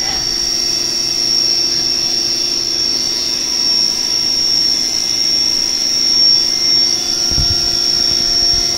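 Haas VF-3 CNC vertical machining center running a program: a steady high-pitched spindle whine over a steady mechanical hum, with a brief low thump about seven seconds in.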